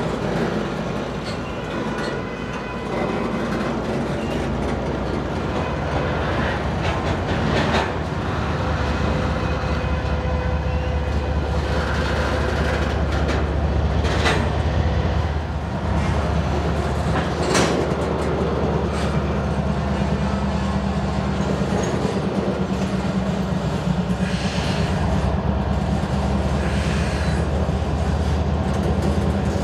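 Double-stack container freight cars rolling past, wheels clacking over the rails, with two sharp clanks a few seconds apart near the middle. A steady low drone from a Union Pacific diesel locomotive at the rear of the train grows stronger as it comes up.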